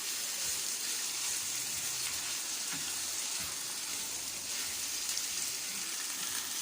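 Marinated chicken pieces frying in coconut oil in a pan, a steady sizzle. Now and then there is a faint knock of the spoon as the chicken is stirred.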